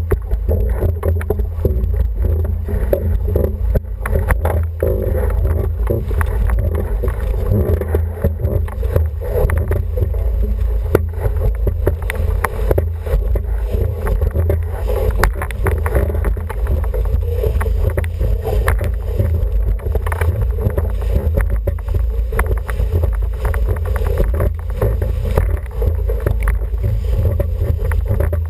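Steady wind buffeting the microphone, with water rushing along the hull of an International 14 dinghy under sail.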